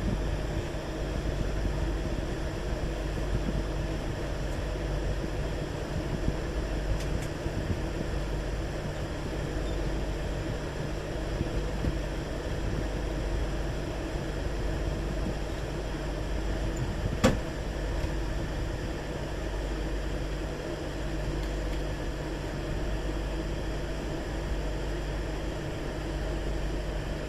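Steady low rumble of a moving train, with a single sharp click about 17 seconds in.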